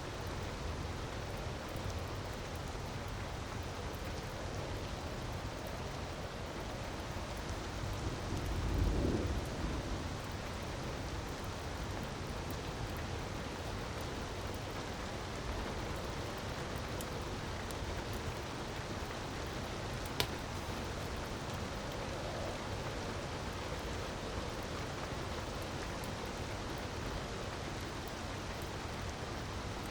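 Steady rushing of a waterfall mixed with the light crackle of a wood fire. There is a low swell about nine seconds in and one sharp pop about twenty seconds in.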